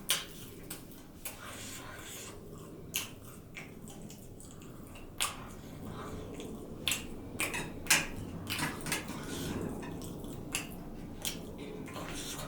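Close-up eating sounds: wet chewing and smacking mouth clicks, coming irregularly throughout.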